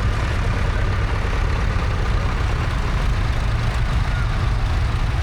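Tractor diesel engine running steadily with a low rumble.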